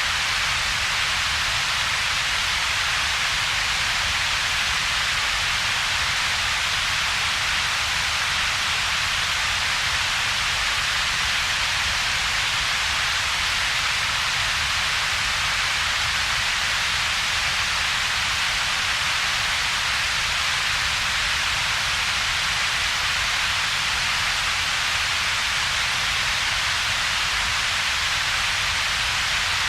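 Computer-generated double-peaked coloured noise: a steady, unchanging hiss with two bands of energy, a brighter hiss in the upper-middle range and a deep rumble underneath, with a hollow gap between them.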